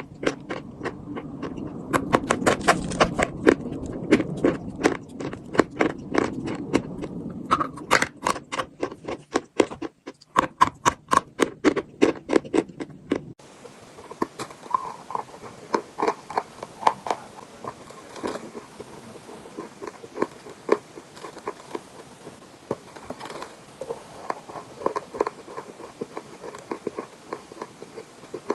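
Close-miked crunching and chewing of chalk, rapid crisp crunches several a second. About halfway through the sound changes abruptly to softer, sparser crunches over a faint hiss.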